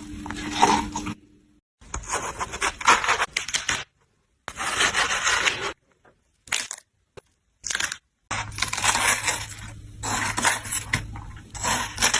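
Several short stretches of crunching and scraping, each broken off by a sudden silence, with a faint low hum under the last few seconds.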